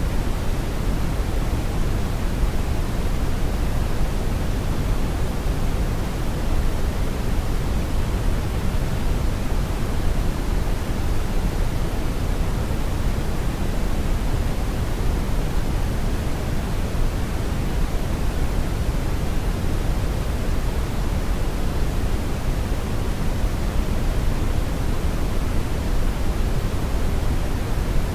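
Steady brown noise: an even, deep rushing hiss, strongest in the low end and fading toward the highs, with no changes or events.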